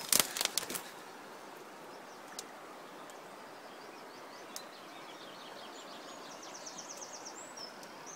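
Woodland ambience: a few handling clicks at the start, then a steady outdoor background noise, with a small bird's rapid high trill about six and a half seconds in, lasting about a second.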